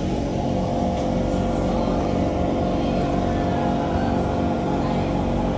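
Kawasaki C151 MRT train heard from inside the carriage: a steady electric whine of several tones over a low rumble.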